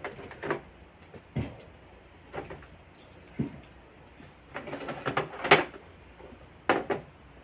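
Containers and items knocking and clattering as they are handled in and around a refrigerator: single irregular knocks every second or so, with a busier run of clatters about five seconds in.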